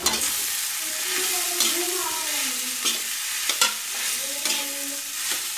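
Mashed boiled potatoes for batata vada filling frying in spiced oil in a kadai, sizzling steadily. A metal spatula stirs and scrapes them against the pan, with several sharper scrapes.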